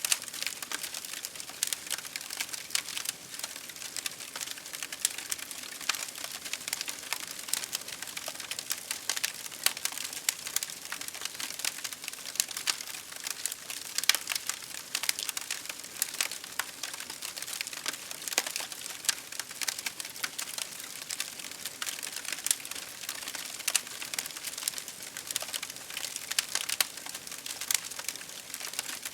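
Wood campfire crackling: dense, irregular snaps and pops over a steady hiss.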